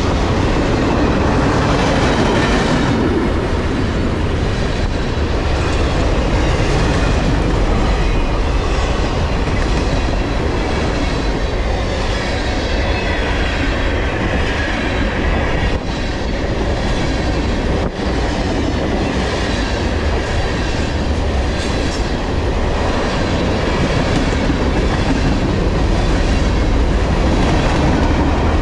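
Freight cars of a mixed manifest train (boxcars, tank cars and covered hoppers) rolling past at about 37 mph: a loud, steady rumble of steel wheels on rail with a clickety-clack over the rail joints.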